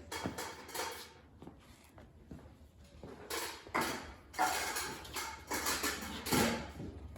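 Shop work noise: irregular bursts of hissing and clattering, some lasting up to about a second, loudest from about three seconds in.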